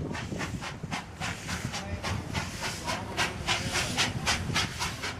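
Worn bicycle chain and drivetrain rasping rhythmically under pedalling, about four strokes a second, growing louder after a couple of seconds: the drivetrain is straining. Wind rumbles on the microphone.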